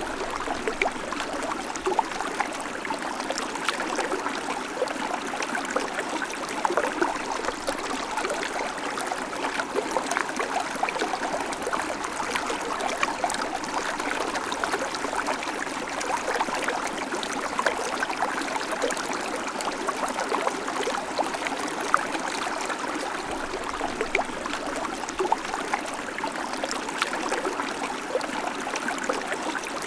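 Babbling creek: water running steadily over stones with a constant gurgling rush and many small splashes and drips.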